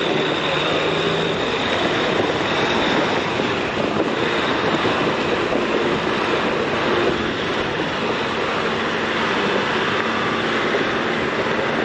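Off-road vehicle driving up a rough mountain trail: steady engine, tyre and wind noise.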